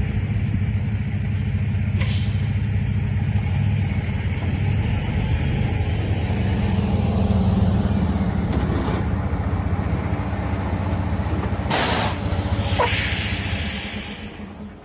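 Truck engine running with a steady low rumble, then two loud air-brake hisses about twelve and thirteen seconds in, and the engine dying away near the end.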